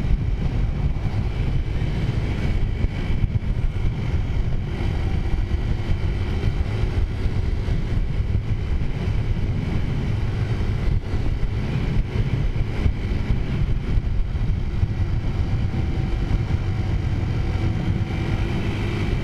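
Taotao 50cc-class four-stroke scooter engine, fitted with a big-bore kit, running steadily while riding, with wind rumbling on the microphone.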